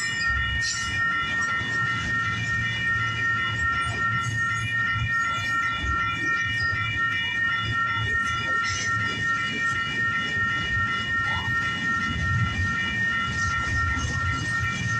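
Union Pacific intermodal freight train rolling past with a steady low rumble and scattered wheel clicks, under a continuous, rapidly pulsing high ringing.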